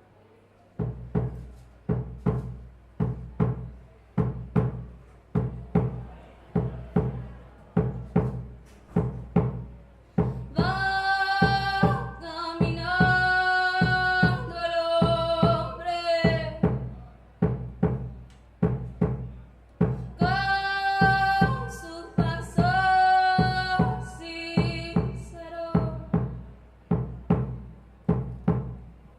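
Live band music: a steady beat of low drum hits, a little under two a second, with held melodic notes coming in over it twice.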